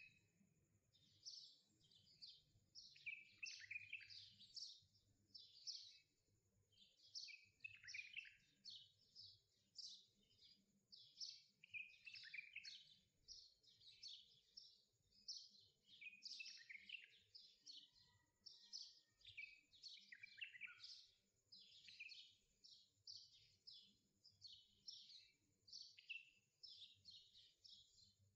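Faint birdsong: a dense, continuous run of short chirps and quick falling whistles.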